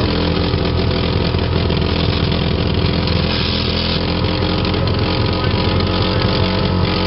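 An old Subaru's flat-four engine held at high revs, running steadily and loud, as it is deliberately run to destruction while boiling over.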